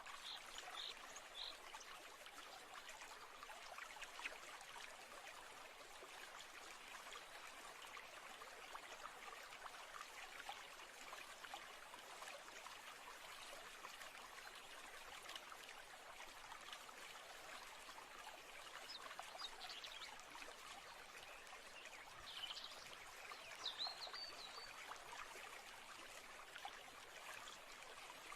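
Faint, steady trickling of a flowing stream, with a few short high chirps about a second in and again a little past the middle.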